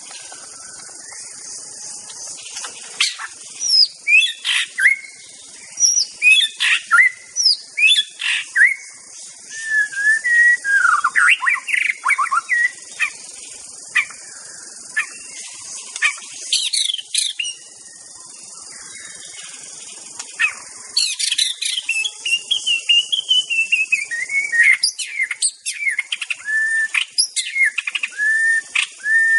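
White-rumped shama (murai batu) singing a varied song of whistled phrases, sliding notes and quick runs of short notes, with brief pauses between bursts, over a steady high hiss.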